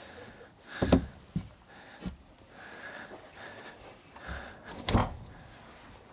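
Five scattered knocks and thumps, the loudest about a second in and another near the end, over a faint background.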